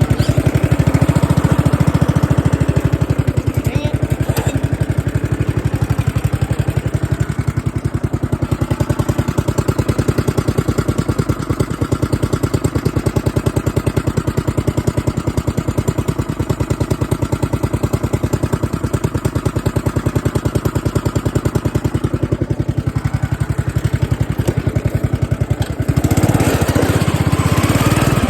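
Small engine of a racing lawn mower running steadily as it is driven, with a fast even firing pulse, growing louder near the end.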